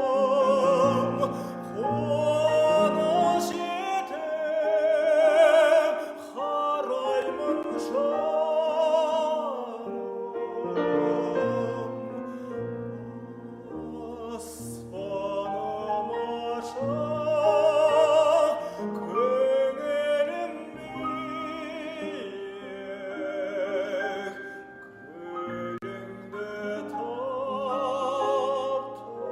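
Operatic solo voice singing sustained notes with wide vibrato, accompanied by piano.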